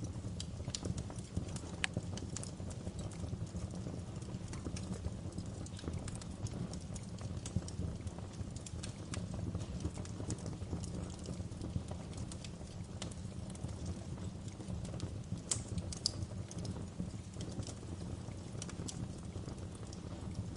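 Wood fire burning in a fireplace: a steady low rumble of flames with scattered crackles and pops throughout, and a few louder pops about fifteen seconds in.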